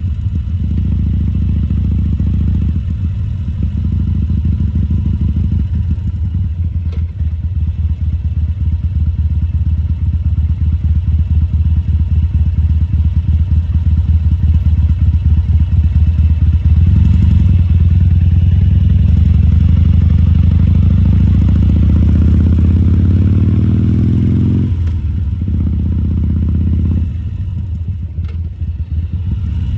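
Harley-Davidson Sportster 1200 Custom's air-cooled V-twin running at low speed with a steady pulse. About halfway through, the engine note climbs steadily for some eight seconds as the throttle is opened, then drops back when it is closed.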